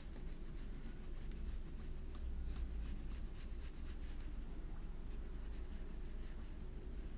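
Paintbrush strokes brushing and scrubbing watercolour across paper, a run of short, soft scratchy swipes, over a low steady hum.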